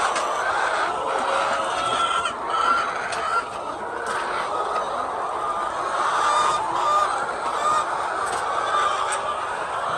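A large flock of chickens clucking and calling together, many birds overlapping in a steady, dense chorus.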